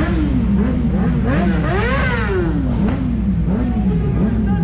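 Several superbike racing motorcycles at full throttle, their engines climbing in pitch and dropping back with each gear change. One bike passes close about two seconds in, its engine note rising to a peak and then falling away.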